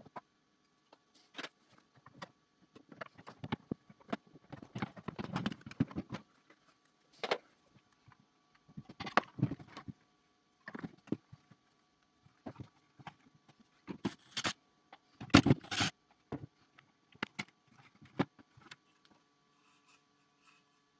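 Irregular clicks, knocks and short rustles of plastic parts being handled, typical of a robot vacuum being taken apart by hand, with the loudest knock about two thirds of the way through.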